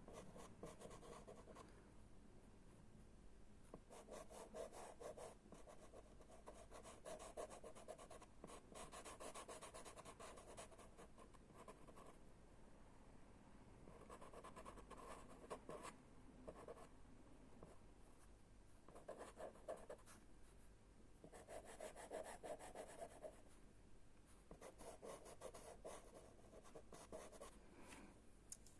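Faint scratching and rubbing of chalk pastels worked over a drawing, in spells of one to several seconds with short pauses between.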